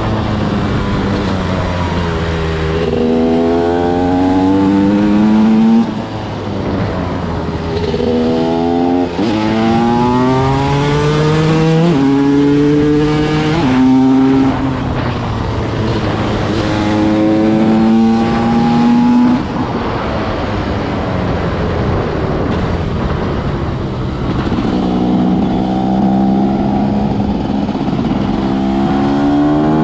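TM SMR 300 two-stroke single-cylinder supermoto engine pulling hard on full throttle, its pitch climbing again and again and dropping back at each gear change or roll-off.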